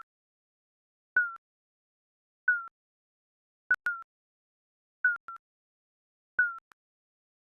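Countdown timer's electronic beep sound effect: short blips, each a slight downward chirp, repeating about every 1.3 seconds, some with a sharp click at the start or a quick echo after.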